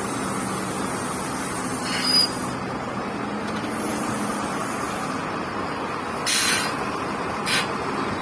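Diesel tipper truck engine running steadily, with two short hisses of air near the end, typical of the truck's air brakes.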